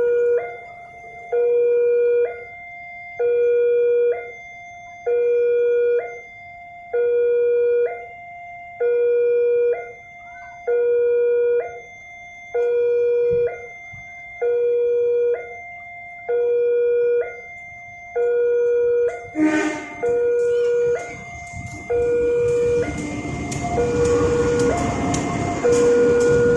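Indonesian railway level-crossing warning alarm sounding, two electronic tones alternating low and high about once a second. About twenty seconds in there is a brief sharp sound, and then the rising noise of the approaching train builds beneath the alarm.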